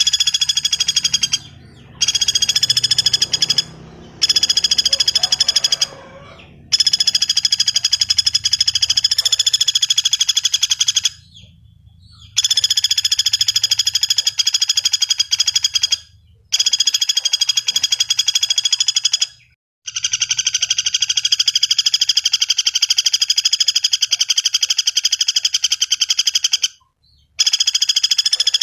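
Common flameback woodpecker (pelatuk bawang) giving loud, very fast rattling trills in long runs of about two to seven seconds, broken by short pauses of under a second.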